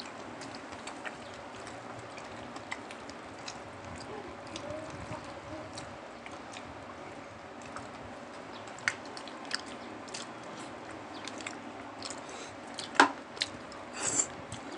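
Close-miked chewing and mouth sounds of people eating saucy pork-leg kare-kare and rice by hand, with scattered small mouth clicks. A few sharper clicks come near the end.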